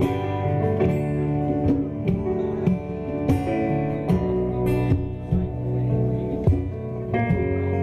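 Instrumental passage of a live acoustic pop song: a strummed acoustic guitar playing a steady rhythm, with no singing.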